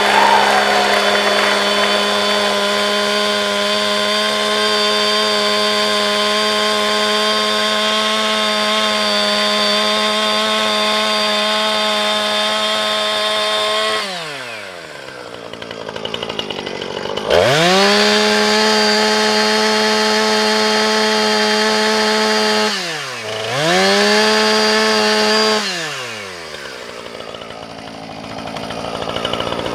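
Chainsaw running at a steady high pitch at full throttle for about fourteen seconds, then winding down. It is revved back up twice, with a short dip between, before dropping back to a lower, quieter run near the end.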